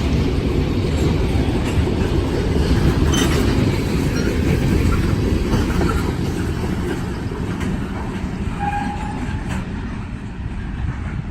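A train's cars rolling past with a steady low rumble and clicks of wheels over the rail joints, easing off over the last few seconds. A short squeal of steel wheels comes near the end.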